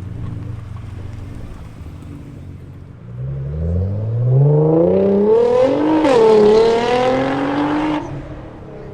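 Car engine at low revs, then accelerating hard with its pitch rising steadily for about three seconds, held at high revs, and cut off suddenly near the end.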